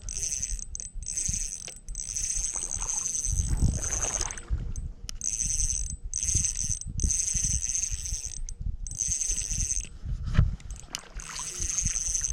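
Spinning reel's drag buzzing in repeated bursts as a hooked trout pulls line off the spool, with low rumbling handling noise underneath.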